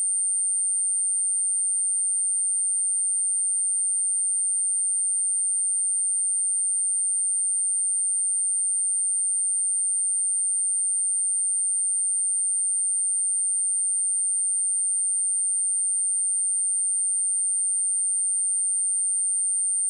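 A steady, unbroken 8905 Hz sine-wave test tone: one pure, very high-pitched tone held at constant level, of the kind played to test a speaker or to shake water and dust out of it.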